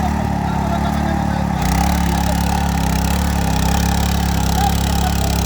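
Power weeder's small engine running steadily, its note shifting slightly about one and a half seconds in.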